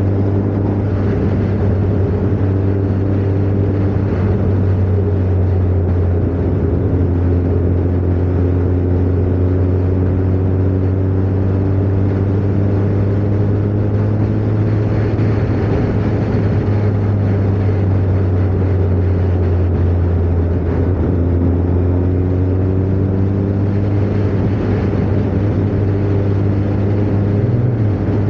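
Kawasaki ZZR 1400's inline-four engine running at a steady cruise, its note drifting gently up and down in pitch with small throttle changes, over a steady rushing noise.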